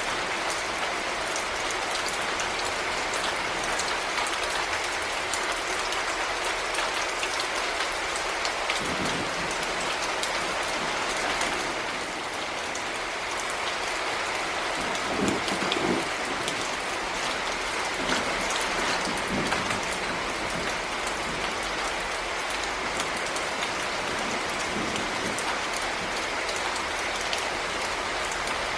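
Heavy rain falling steadily, a dense patter of drops hitting a surface. A few low thuds stand out about halfway through.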